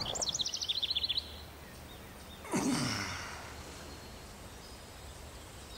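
A bird's rapid, high trill of about a dozen notes a second for the first second or so, then a soft breathy swell about two and a half seconds in that fades away, over faint outdoor ambience.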